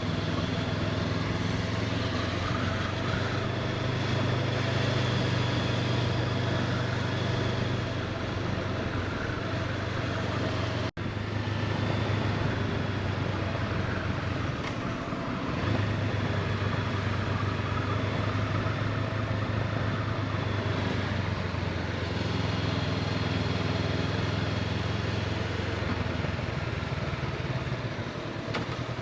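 Honda CB500X motorcycle's parallel-twin engine running steadily at cruising speed, with road and wind noise. The sound cuts out for an instant about eleven seconds in.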